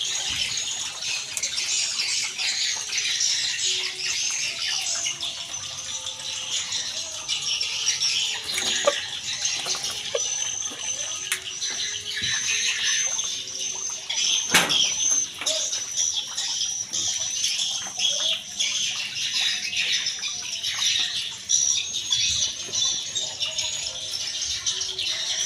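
A flock of ayam super chickens, many birds peeping and calling at once in a dense, continuous high chatter, with a few sharp clicks among it.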